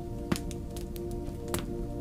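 Wood fire crackling in a fireplace, with two sharp pops, over soft sustained ambient music.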